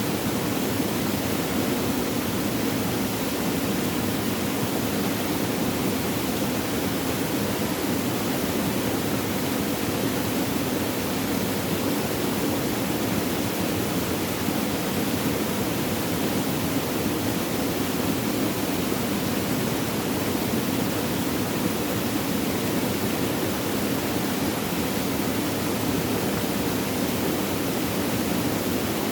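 Flowing water babbling steadily, an even rushing hiss with no breaks or changes.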